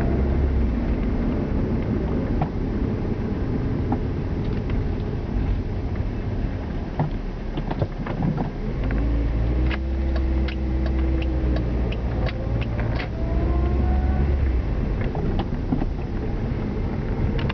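A motor vehicle running with a steady low rumble; its engine pitch rises and falls a few times. Scattered light clicks come through in the middle stretch.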